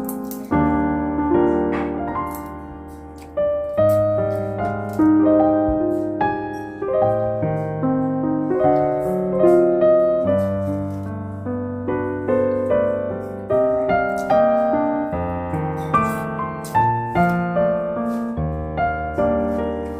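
Background piano music: a slow melody over sustained bass notes, each note struck and fading.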